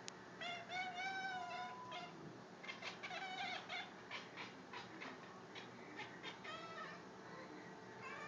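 Pet cat making a string of high, wavering meows, two longer ones in the first few seconds followed by many short chirping calls.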